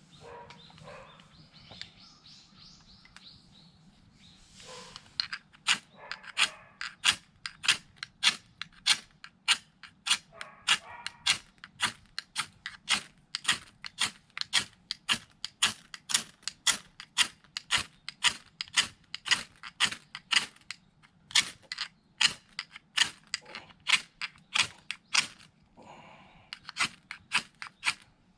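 Mora knife blade shaving curls down a wooden stick to make a feather stick: short scraping strokes at about two a second, starting about five seconds in and going on steadily.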